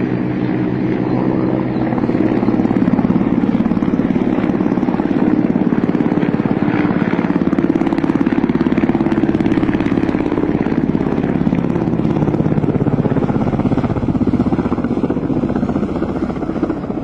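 Low-flying military helicopter passing close by: fast, steady rotor beat over the engine's drone. It gets louder about two seconds in and eases slightly near the end.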